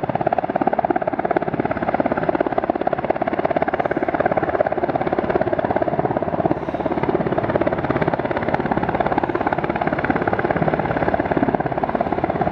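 U.S. Coast Guard helicopter hovering low while practicing hoist pickups, its rotor beating loud and steady.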